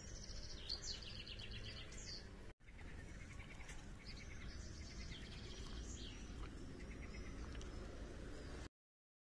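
Songbirds chirping and singing in short rapid phrases over a low outdoor rumble. The sound cuts out for an instant about two and a half seconds in and stops dead near the end.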